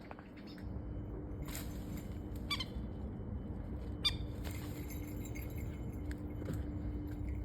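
Steady wind rumble on the microphone with a faint low hum, broken by a few brief high metallic clinks, about a second apart early on and once more about four seconds in.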